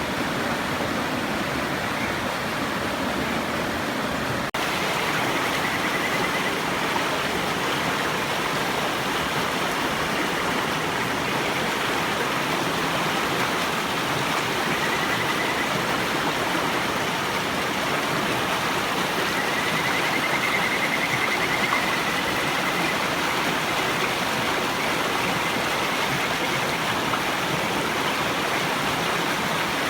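River water rushing steadily, with kajika frogs (Buergeria buergeri) giving faint, high warbling trills several times, the longest about two-thirds of the way through.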